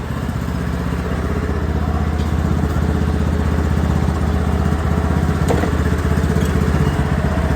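Riding lawnmower's small petrol engine idling steadily, with the throttle set all the way down.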